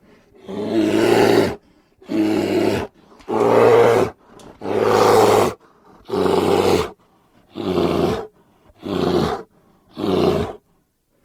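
A series of bear roars: about eight separate calls, each around a second long, with short silent gaps between them.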